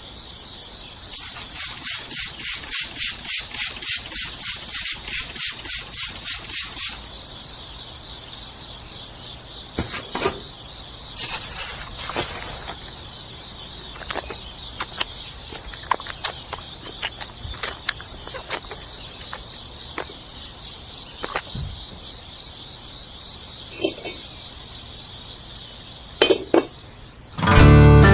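Crickets trilling steadily and high-pitched. For the first several seconds there is a quick, regular ticking of about three or four a second, and scattered single clicks and taps follow.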